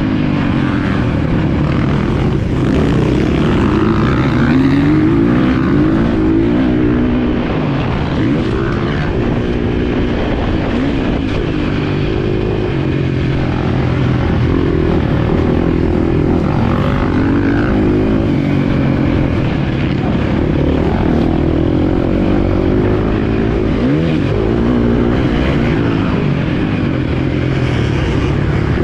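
Motocross bike engine being ridden hard, revving up and falling back again and again as the rider accelerates, shifts and backs off.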